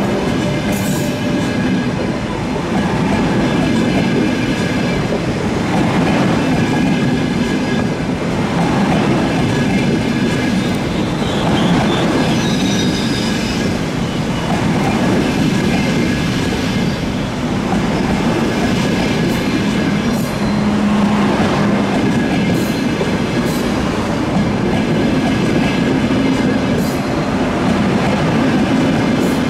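Train moving along the tracks: a steady rolling rumble of wheels on rail with some clatter, and a brief high wheel squeal about midway.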